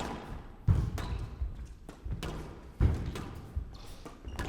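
Squash rally on a glass court: the rubber ball struck by rackets and smacking off the walls, with players' shoes on the floor, a run of sharp knocks with the two hardest about a second in and near three seconds.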